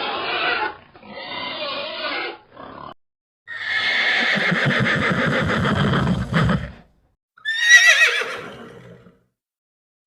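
A horse whinnying: a long, fluttering call about halfway through, then a shorter call that falls in pitch near the end.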